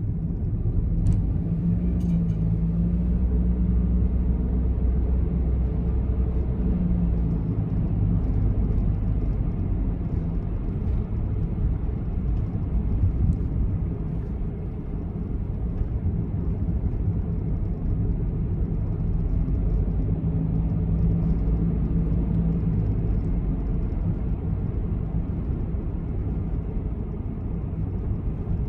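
Honda N-BOX (JF1) with its three-cylinder S07A engine, heard from inside the cabin on the move: a steady low rumble whose engine note swells twice, early on and again in the second half.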